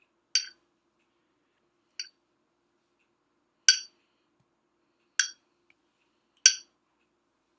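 A spoon clinking against a salsa jar while dolloping salsa: five short, sharp clinks about a second and a half apart.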